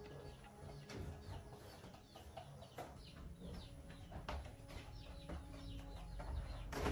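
Birds chirping and fowl clucking, with scattered light clicks and taps and a sharper knock near the end.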